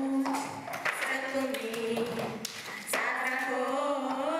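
A song with a singing voice: held, melodic notes changing every half second or so, with a few light taps or clicks mixed in.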